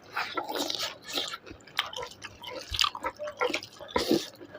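Close-up wet chewing and lip-smacking of a person eating chicken, with many short, sharp wet clicks of the mouth.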